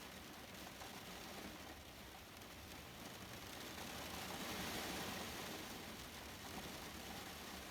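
Faint steady hiss of falling rain, with a louder whoosh for a second or two a little past the middle.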